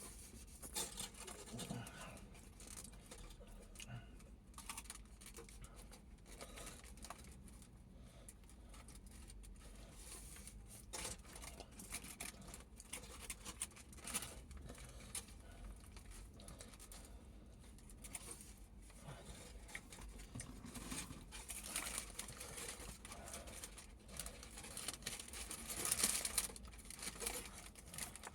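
Faint, irregular crinkling, tearing and small clicks as a doner kebab and its wrapping are handled and eaten, a little louder near the end.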